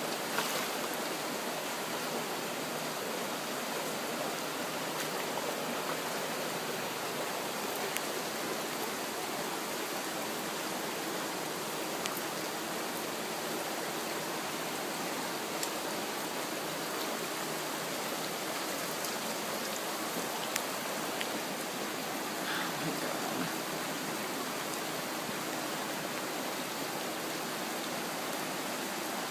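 Floodwater rushing in a steady, even wash of noise, with a few faint clicks here and there.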